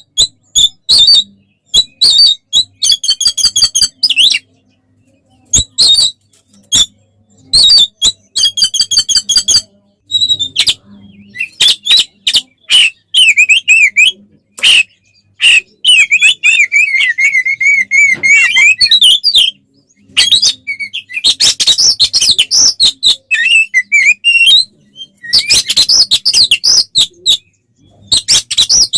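Oriental magpie-robin (kacer) singing loudly in an agitated, fighting mood: quick-fire phrases of rapid trills, warbled whistles and harsh chattering, broken by short pauses.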